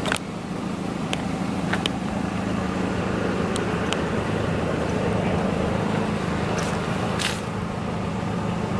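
A car engine idling steadily, with a few faint clicks and knocks.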